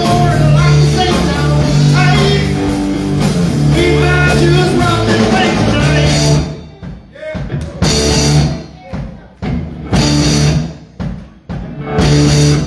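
Live rock band with electric guitar and drum kit playing loudly. About six seconds in, the full band stops and plays short, separate accented hits with quieter gaps between them.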